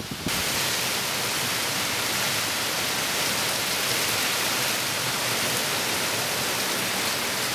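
Heavy hurricane rain falling steadily, an even, unbroken hiss that starts about a quarter second in.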